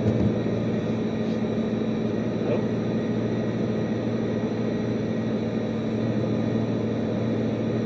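Bugatti Veyron's quad-turbo W16 engine and tyre noise droning steadily inside the cabin while cruising at an even speed, with a short thump right at the start.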